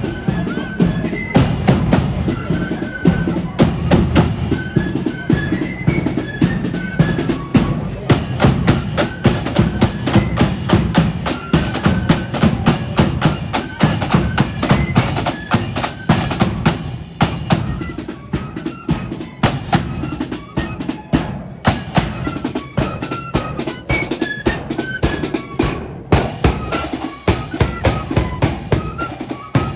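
Marching flute band playing a tune: a high flute melody over rapid snare drumming and a pounding bass drum.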